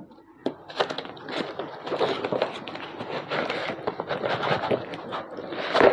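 A product box being opened by hand: scraping and rustling of the box and its packing, with many small clicks and a louder scrape near the end.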